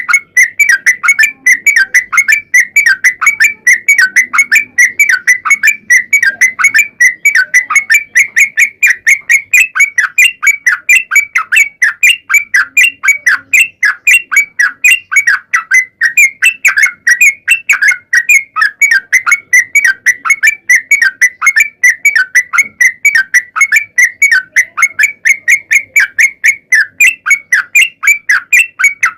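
Trucukan (yellow-vented bulbul) singing a long, fast run of repeated chirping notes, about five a second, with no break.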